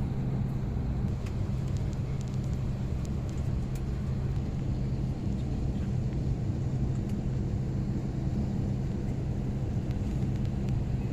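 Steady low drone of an airliner cabin while the plane sits waiting on the ground, with a few faint clicks in the first few seconds.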